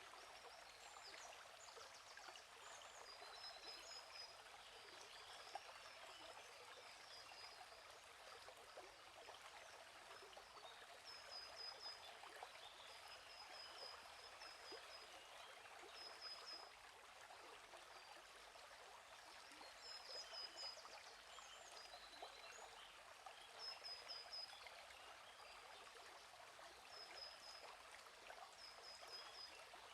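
Faint, steady trickling of a gently flowing stream, with small birds chirping in short high series every few seconds.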